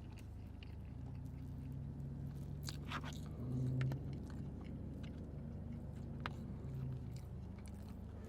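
Close-miked chewing of breakfast food, with wet mouth clicks and smacks and a few low hummed "mmm" sounds, the strongest smack about three seconds in.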